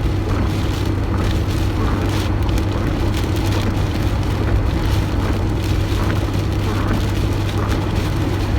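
Steady low hum of a car driving, heard from inside the cabin, with rushing wind and rain noise over it.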